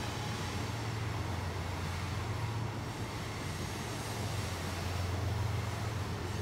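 Distant freight train of tank cars and covered hoppers rolling across a stone arch bridge: a steady low rumble.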